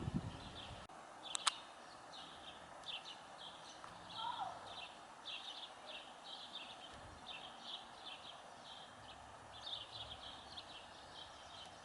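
Faint bird chirping: short, high chirps a few times a second, with one lower falling call about four seconds in.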